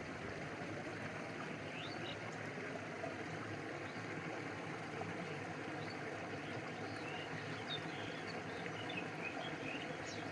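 A stream flowing steadily, with water lapping close by, a continuous even rush of water. Scattered short high chirps sound over it, more often in the second half.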